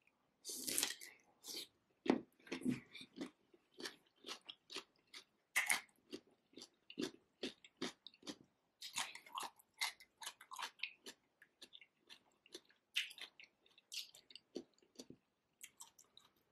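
Bite into a whole cucumber coated in butter sauce about half a second in, then chewing with many short crunches, several a second.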